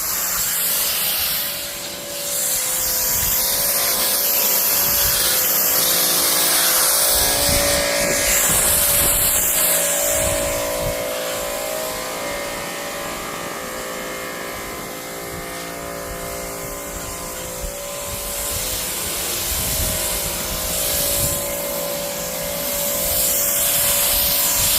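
Pressure washer running and spraying water onto a car body: a steady motor hum under a hiss of spray that swells and fades as the jet moves.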